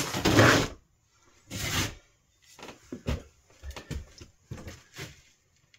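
Rustling as insulation material is handled, then about five light knocks at uneven spacing, like a small nail being tapped in to hold stone wool against a chimney.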